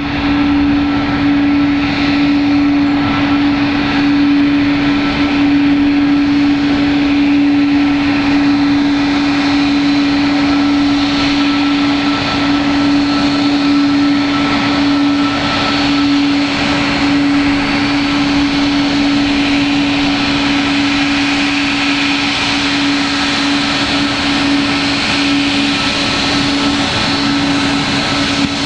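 Boeing 777-200 jet engines running steadily and loud, with a constant whine held at one pitch over the rushing noise.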